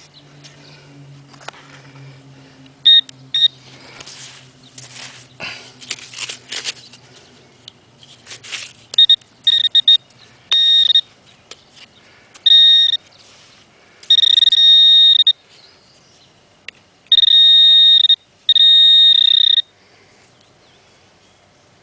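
A shovel scrapes and crunches into sand. Then a handheld metal detector sounds a steady high beep, first in short chirps and then in longer held tones about a second long, as it closes in on a buried coin about 6 inches down.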